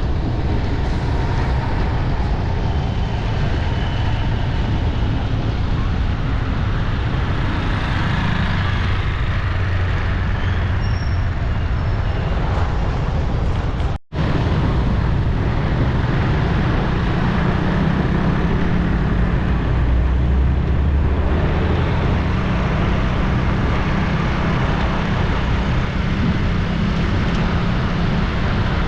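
Steady city street traffic noise of engines and tyres, with the sound cutting out for an instant about halfway through.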